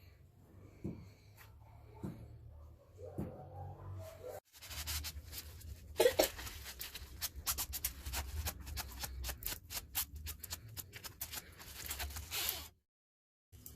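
A run of small clicks, taps and scrapes from hand work on tools or wood, denser and sharper in the second half, broken by two abrupt cuts.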